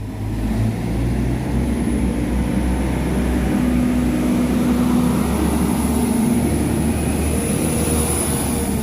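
A Northern Ireland Railways diesel multiple unit train running past close by. Its engine rumble and hum build up during the first second and then hold steady, with a thin high whine that grows towards the end.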